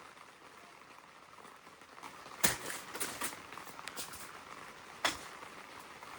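Rain pattering on the tent fabric: a steady hiss with scattered drop taps that pick up about two seconds in. Two sharper knocks stand out, one about two and a half seconds in and one about five seconds in.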